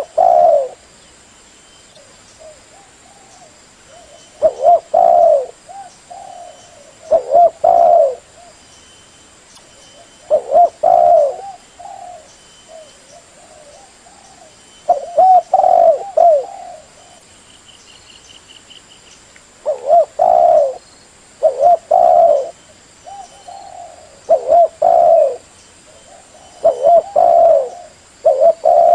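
Spotted dove cooing: short, loud coo phrases repeated every few seconds, with fainter coos in between.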